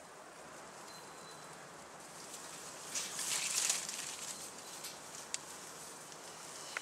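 Outdoor ambience: a steady hiss of background noise, with a louder rustle about three seconds in that lasts around a second, and a single sharp click a little after five seconds.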